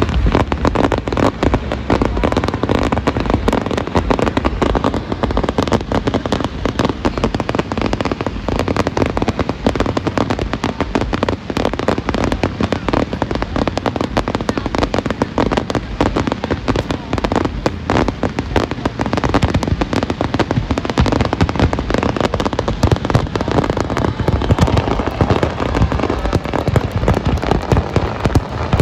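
Fireworks display: a continuous rapid barrage of shell bursts and crackling, with no pauses.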